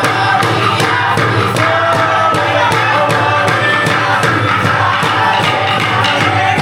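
A group of voices singing together over a steady percussion beat.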